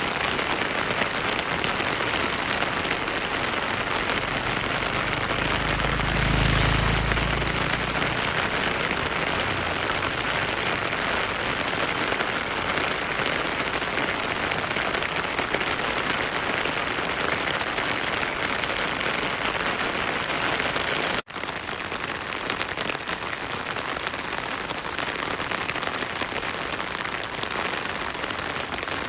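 Heavy rain falling steadily, a dense, even hiss. About six seconds in a low rumble swells for a second or so. About two-thirds of the way through, the sound cuts out for an instant and then carries on slightly quieter.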